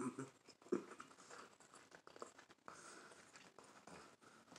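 Faint, soft chewing of avocado toast with a fried egg, mouth closed, with small scattered clicks from the mouth.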